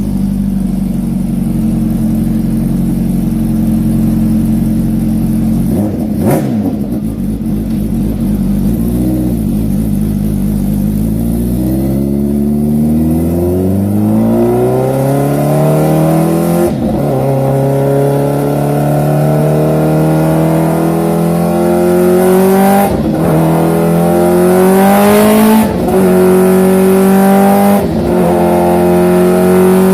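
Big motorcycle's exhaust running at a steady engine speed, then accelerating from about twelve seconds in: the pitch climbs and drops back at each of four upshifts.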